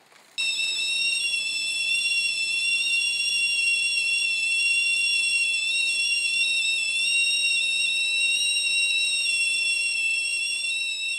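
Tea-kettle whistle starting suddenly about half a second in and holding a steady, loud, high-pitched two-note shriek, with the upper note wavering slightly.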